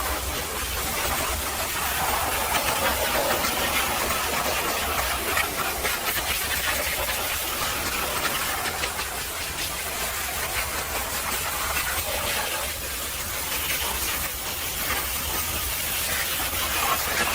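High-pressure washer spray blasting against a heavily mud-caked truck, a steady hiss that wavers a little as the jet moves, over a constant low hum.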